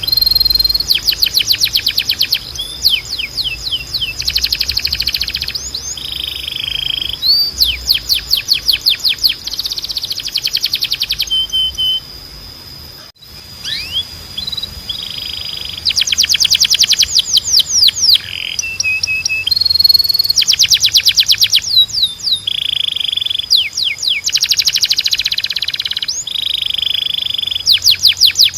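Domestic canary, Spanish timbrado type, singing: phrases of fast trills and rolls of rapidly repeated notes alternate with short held whistles, with a brief pause about halfway through.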